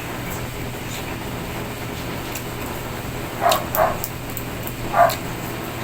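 A dog barks three times, two quick barks about three and a half seconds in and a third about a second later, over a steady background hum.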